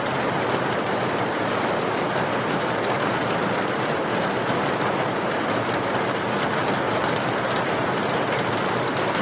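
Steady rain falling, with a wood fire crackling in faint scattered pops.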